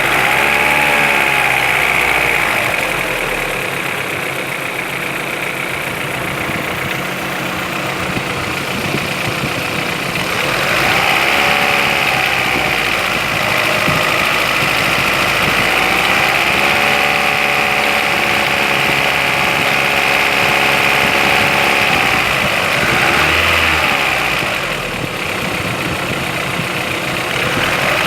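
Engine idling and being revved several times: a short blip at the start, another about a third of the way in, then revs held up for several seconds past the middle and one more blip near the end. The engine is being run to trace a knock.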